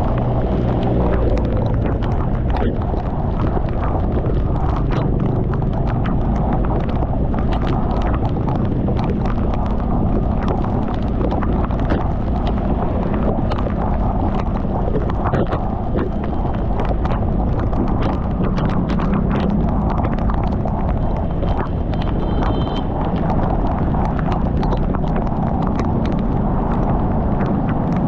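Heavy rain and wind noise on a moving motorcycle, with a dense, irregular clicking of raindrops striking the microphone over a loud, steady low rumble.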